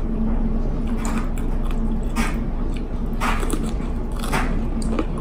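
Close-miked chewing of crunchy raw sweet pepper, with crisp crunches about a second apart, over a steady low hum.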